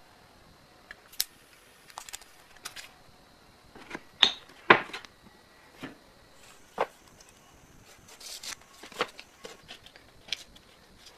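Scattered clicks and knocks of tools and parts being handled during work on the machine: about a dozen separate taps, the loudest two a little over four seconds in.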